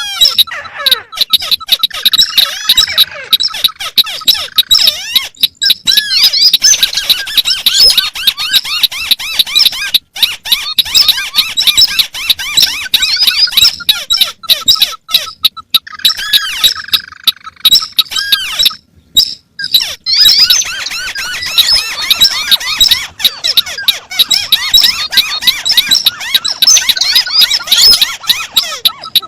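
Recorded calls of several crakes, including the white-browed crake, played together as a lure: loud, dense, overlapping high chirping and squeaking calls that do not keep time with one another, with a brief break about two-thirds of the way through.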